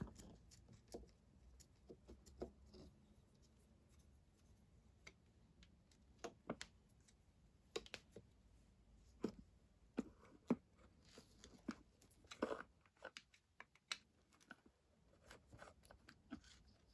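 Quiet hands-on work on a small motorbike carburettor: scattered light clicks and scrapes of parts and tools being handled, with a few sharper clicks around the middle.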